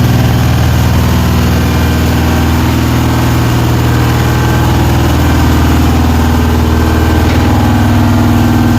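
Large diesel engines running in a tugboat's engine room: a loud, steady drone with no change in speed.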